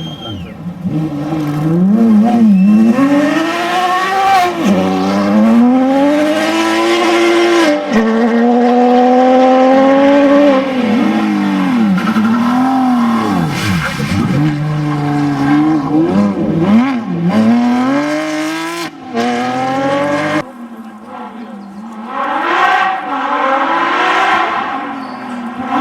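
Porsche 911 GT3 RS flat-six rally car revving hard and shifting through the gears, the engine note climbing and dropping again and again. About halfway through the note swoops down steeply as the car passes, and the sound cuts abruptly a few times.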